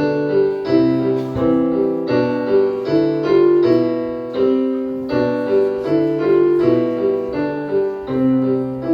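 Electronic keyboard with an electric-piano sound playing a melody over chords, notes struck at a steady pace about every two-thirds of a second.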